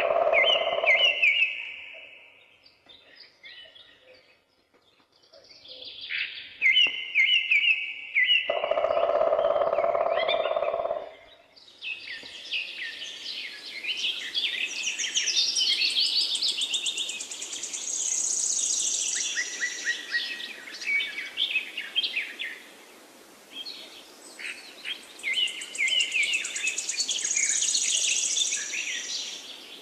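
Songbirds singing: a busy chorus of high chirps and rapid trills. A lower steady sound is heard briefly at the start and again about nine seconds in.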